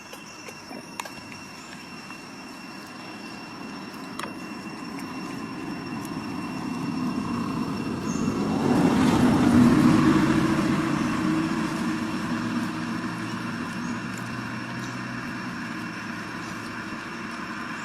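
A motor vehicle passing by, growing steadily louder to a peak about halfway through, then slowly fading.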